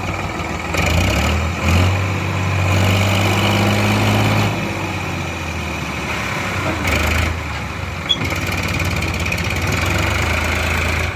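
Heavy vehicle engine running, with a rise in engine speed about a second in that is held for a few seconds before settling back to a steady idle.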